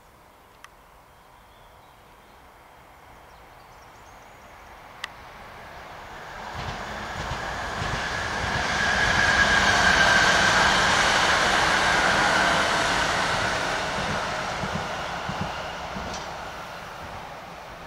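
Electric multiple-unit passenger train passing over points: the rumble and clatter of its wheels swell to a peak about ten seconds in and fade as it runs away, with a steady high hum over it. Two sharp ticks, one just after the start and one about five seconds in.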